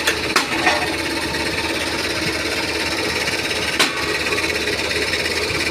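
Engine running steadily, with a few short sharp clicks in the first second and one more just before four seconds in.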